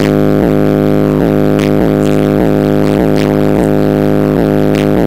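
Loud hip-hop beat playing through a car audio system with subwoofer: a droning, looped vocal sample that dips in pitch about two to three times a second over heavy bass, with no rapping.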